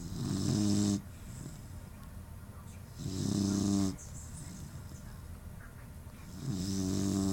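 A sleeping puppy snoring: three loud, rasping snores about three seconds apart, each lasting about a second. The owner puts the heavy snoring down to a deviated septum.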